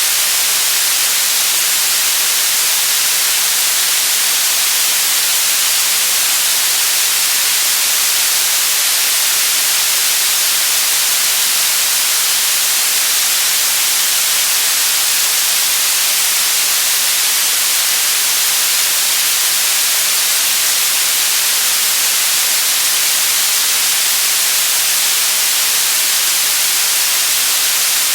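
Steady white noise, a loud, even hiss with no change, weighted toward the treble.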